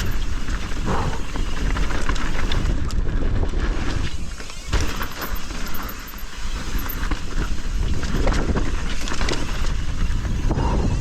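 Mountain bike riding fast down a rough dirt trail: wind rumbling on the camera microphone, tyres rolling over dirt, and the bike rattling and clacking over bumps.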